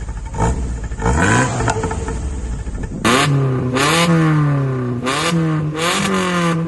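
Vehicle engines with modified, loud exhausts being revved. The engine pitch climbs and falls with each throttle blip. About three seconds in, a cut leads to another engine revved up and down several times.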